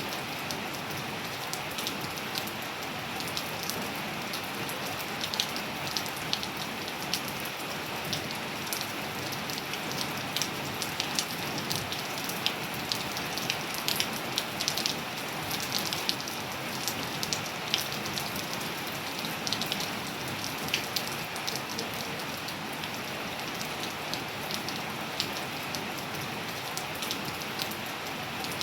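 Steady rain with a constant hiss, and many close drops ticking sharply on a hard surface, thickest through the middle.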